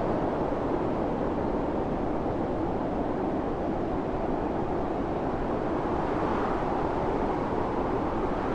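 Strong wind blowing steadily in a snowstorm, a dense low rushing noise without gusts or breaks.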